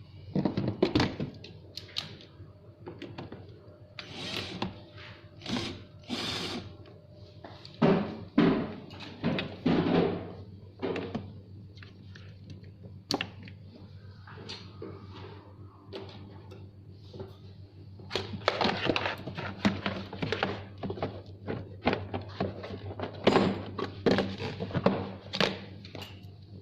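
Irregular knocks, thunks and clattering of parts being handled and fitted together while a kids' electric ride-on truck is assembled, over a steady low hum.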